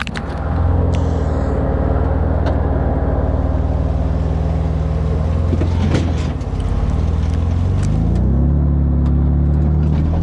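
Vehicle engine running steadily, its pitch dropping briefly about six seconds in, then climbing again.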